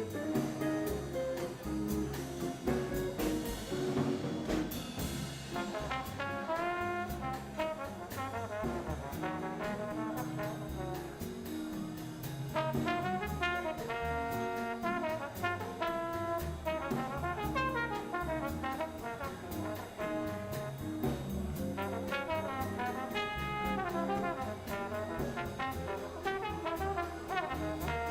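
Jazz band playing an instrumental passage of a slow ballad, with brass horns carrying the melody over a walking upright bass and drums keeping time.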